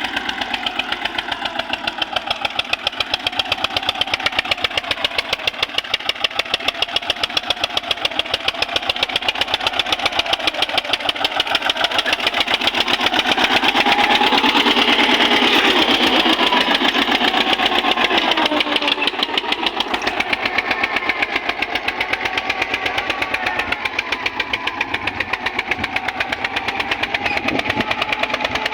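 Eicher tractor's diesel engine running, with a fast, even chug of firing pulses; it gets somewhat louder for a few seconds around the middle.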